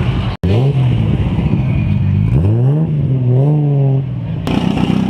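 Car engine being revved: its pitch climbs about half a second in and holds, sags, then climbs again between two and three seconds in and holds before the sound cuts off abruptly.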